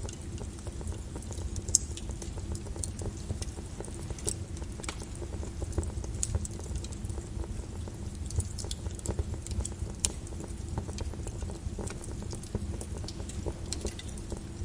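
Volcanic lava flow: a steady low rumble with scattered crackles and pops, and one sharper crack about two seconds in.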